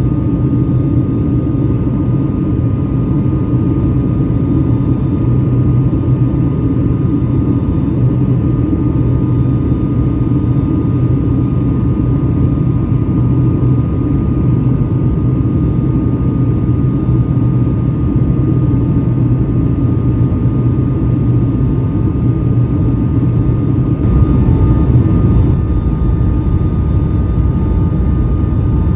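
Steady roar of jet engines and airflow heard inside the cabin of a Boeing 757-200 airliner, with a faint steady whine over it. The noise swells briefly near the end.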